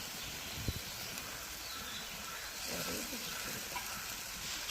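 Spice pastes and onions frying gently in oil in a pan, giving a soft, steady sizzle, with a faint knock about a second in.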